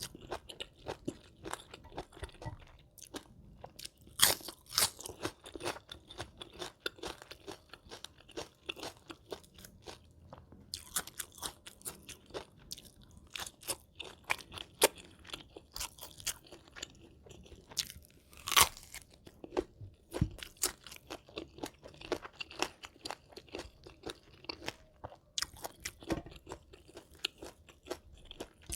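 Close-miked eating: a person chewing crunchy food in a dense, irregular run of crunches, with a few louder bites standing out.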